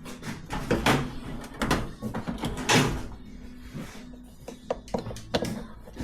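Sharp knocks and clicks of tools and small metal parts being handled as a moped carburettor is taken apart, several strikes at irregular intervals.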